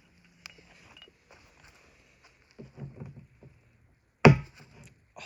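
Light clicks and handling noises of parts being fitted, with one sharp, loud knock about four seconds in.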